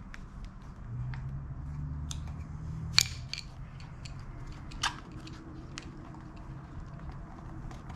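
Scattered small clicks and clinks of metal parts and hand tools being handled while reassembling a brake pedal assembly, with one sharp click about three seconds in and another near five seconds, over a steady low hum.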